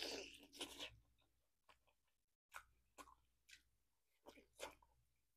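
Close-up mouth sounds of eating beef rib: a brief noisy rush right at the start, then a handful of soft, scattered wet smacks and chewing sounds as meat is bitten off the bone.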